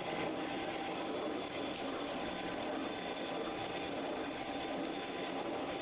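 Workshop machinery running steadily: an even, continuous noise with faint steady tones and a few light high ticks.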